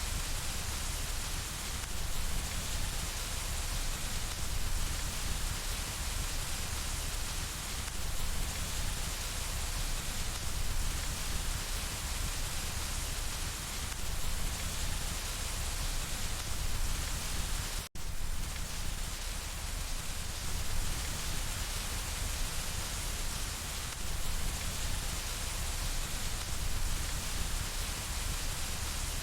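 Steady rain falling on window glass, a dense even hiss. It cuts out for a split second about two-thirds of the way through.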